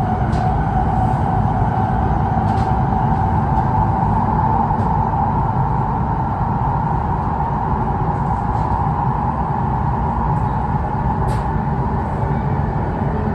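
Steady interior running noise of an E2 series 1000 Shinkansen: a constant low rumble with a steady hum band over it, with a few faint clicks scattered through.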